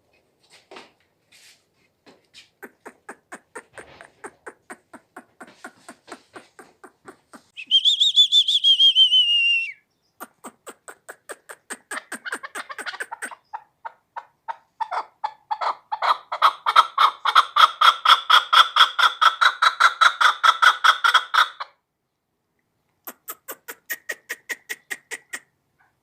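Chukar partridge calling: a long run of short, evenly spaced clucks that builds up, broken about 8 seconds in by a louder drawn-out, wavering note. Later comes a loud, faster stretch of clucking that stops about 21 seconds in, followed by a brief quieter run near the end.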